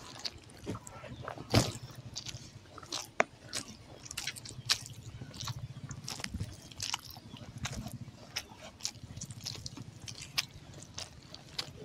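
Close-miked chewing of a mouthful of rice and egg curry, with many wet mouth clicks and smacks, along with the soft squish of fingers mixing rice and egg.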